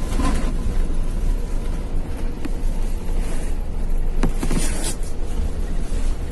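Airbus A380 cabin noise during the landing rollout: a loud, steady low rumble of engines and runway, with a couple of sharp cabin clicks or rattles and a brief noisy swell just past the middle.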